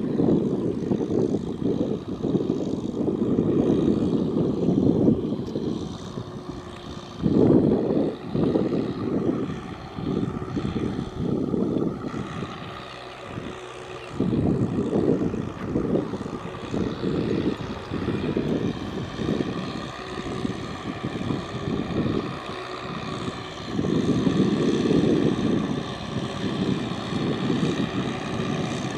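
Tractor engine running steadily under load while ploughing through mud and water, with loud bursts of low noise that come and go every second or so.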